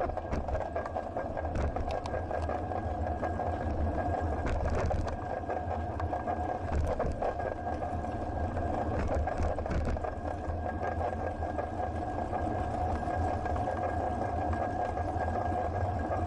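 Bicycle ride noise in city traffic: a steady mechanical hum with a low rumble, and scattered light clicks and rattles from the bike.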